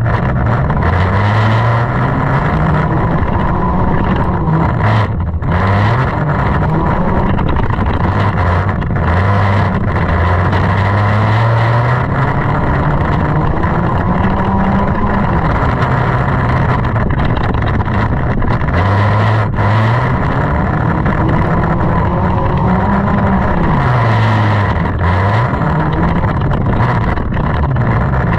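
Junk race car's engine running hard, its pitch climbing and dropping every few seconds as the throttle is opened and lifted, with brief dips about five seconds in and again past the middle, over a constant loud rushing noise.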